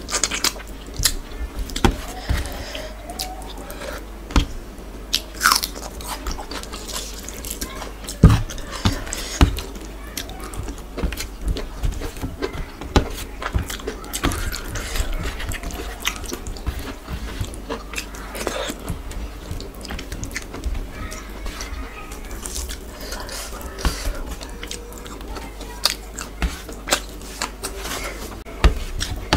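Close-miked eating by hand: chewing and biting of soft khichuri and chicken, heard as many irregular wet clicks and smacks, with fingers mixing rice in a steel tray.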